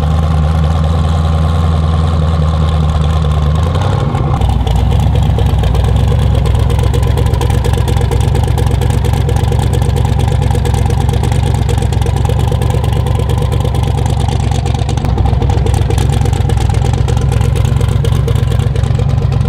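Twin-turbo 427 cubic-inch LS V8 of a drag-racing Camaro idling loudly at the starting line, its note running with a rapid, even pulse that shifts about four seconds in.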